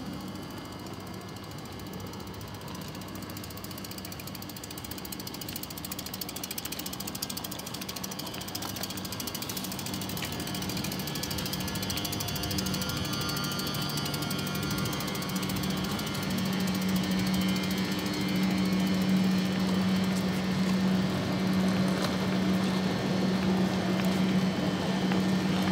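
Omneo Premium double-deck electric train standing at the platform with its auxiliary equipment running: a steady low hum over a fast mechanical rattle, growing louder about two-thirds of the way through.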